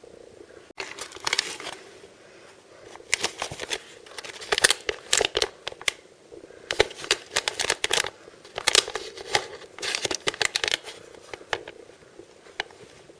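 Packaging being crinkled and torn open by hand, in several bursts of sharp crackling with short pauses between them.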